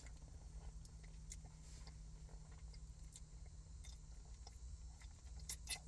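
Faint chewing and wet mouth clicks from eating a sauced chicken wing, with a few louder clicks near the end, over a steady low hum.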